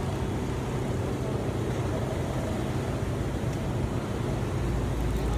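A used engine running steadily with a constant low hum, growing a little stronger near the end.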